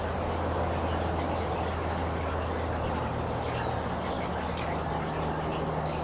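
Small bird giving short, very high chip notes, five in all, spaced about a second apart with a gap near the middle, over a steady background rush and low hum.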